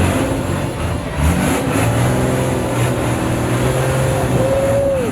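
Long-tail boat's engine running hard, its pitch climbing about a second in and then holding steady, over rushing wind and water noise.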